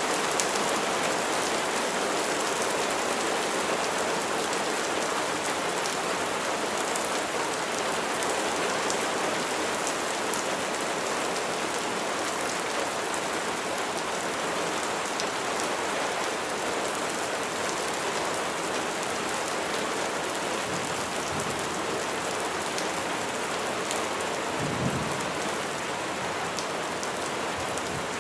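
Steady rain falling: an even hiss with scattered sharper ticks of individual drops. A brief low rumble comes near the end.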